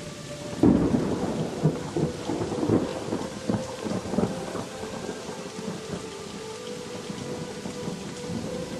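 Thunderstorm: steady heavy rain, with a sudden loud thunderclap under a second in that rolls and crackles for about four seconds before fading back into the rain.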